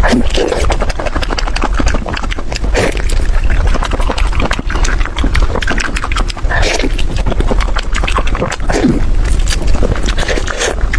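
Close-up mukbang eating sounds: chewing and crunching on chicken heads, with many irregular crackling clicks and wet mouth noises.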